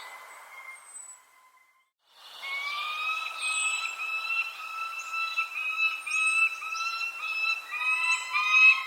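Birds calling: a run of short, repeated, slightly rising notes with thin high chirps above them. The sound drops out briefly about two seconds in.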